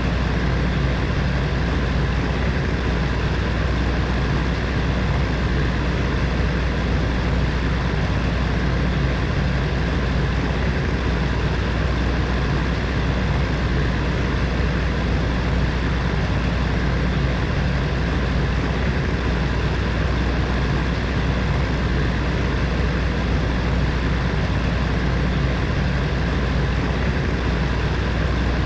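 Electric space heater's fan running steadily, a constant whooshing blow with a low hum underneath.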